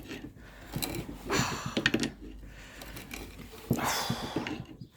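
Adjustable spanner clicking and knocking on a seized nut of an old Record 98 pipe vice as it is strained loose, with two heavy breaths of effort between the clicks.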